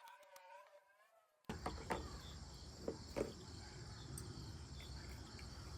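Steady chirring of crickets, broken by a few sharp clicks about two and three seconds in. A short wavering, meow-like cry is heard at the start.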